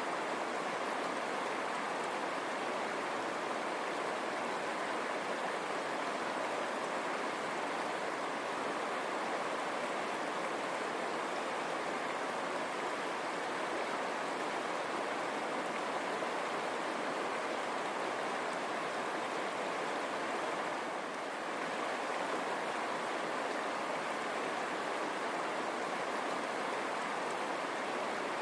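River water running steadily over stones, a continuous rushing burble.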